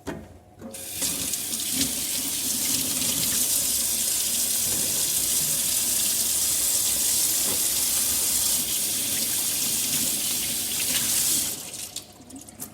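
Water running from a tap into a sink in a steady stream, starting about a second in and shut off near the end.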